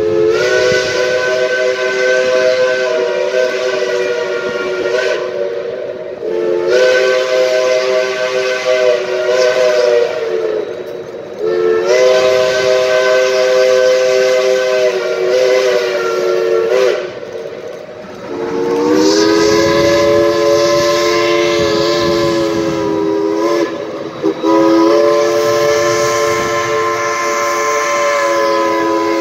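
Chime whistle of a geared steam locomotive, several notes sounding together as a chord, blown in about five long blasts of four to five seconds each with short breaks between. One blast, about two-thirds of the way through, slides up in pitch as it opens.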